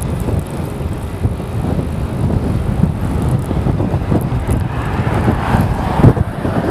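Strong wind buffeting the microphone while riding a bicycle, a loud rumbling rush, with a louder swell of rushing noise building about five seconds in.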